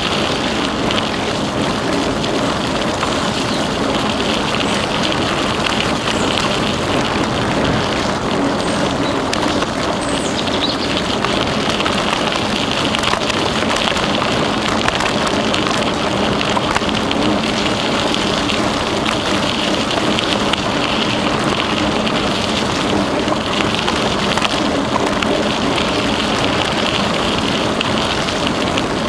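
Steady rustling noise of a bicycle rolling along a trail, mostly tyres on the path surface, without a break.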